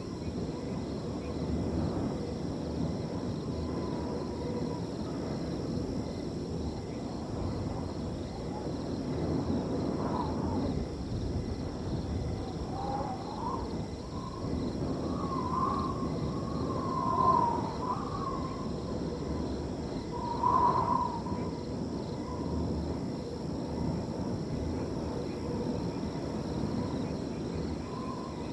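Wind blowing steadily through a field, with crickets trilling faintly throughout. A few short wavering calls rise above the wind around the middle.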